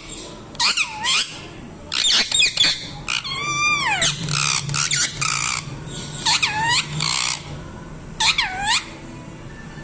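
Parrot calling in bursts: harsh squawks alternating with whistled calls that dip in pitch and swing back up, and one longer whistle that falls in pitch a little past a third of the way in.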